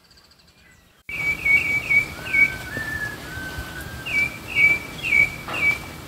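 Wild birds calling, starting abruptly about a second in: two quick bouts of short, clear whistled notes, each repeated four or five times, with a slower series of lower, drawn-out whistles from a second bird between them.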